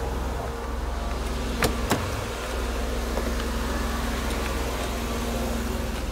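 Mercedes 300E's M103 straight-six idling steadily under the open hood, with two short clicks close together a little under two seconds in.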